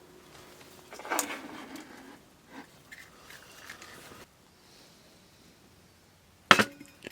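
Knocks and scraping of cooking gear being handled, with one loud sharp knock near the end.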